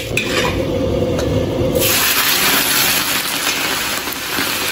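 Low sizzle of rock sugar melting in hot oil in a wok. About two seconds in, a loud, steady hiss starts as the blanched pork belly pieces go into the hot caramel and fry, throwing up steam.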